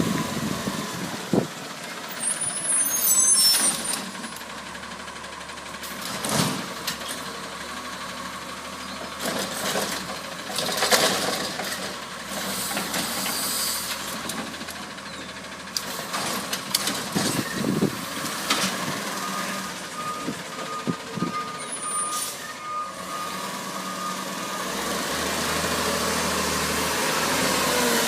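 Autocar ACX garbage truck, running on compressed natural gas, at work: several sharp air hisses from its air brakes over the running truck. A steady high reversing-alarm tone sounds at the start and again through the last third.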